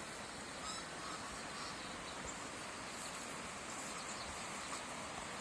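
Faint steady outdoor background noise, with a few faint, brief bird chirps.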